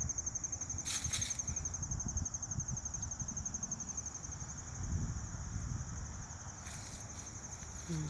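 Crickets chirring in a steady, fast-pulsed high trill, over a low rumble on the microphone with a brief rustle about a second in and another near the end.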